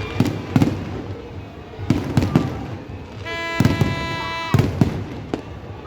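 Fireworks going off in a display: a run of sharp bangs, some close together, with a steady horn-like tone held for about a second and a half in the middle.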